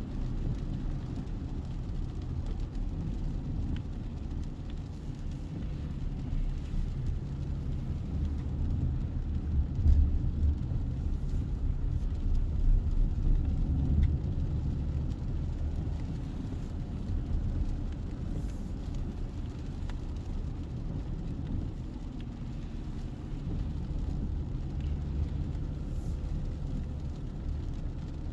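Mazda CX-60's 3.3-litre inline-six diesel engine running with a steady low rumble, swelling briefly about ten seconds in and again a little later.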